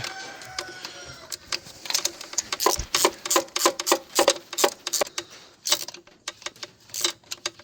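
Ratchet wrench clicking in quick, irregular runs as a new spark plug is tightened into the cylinder head.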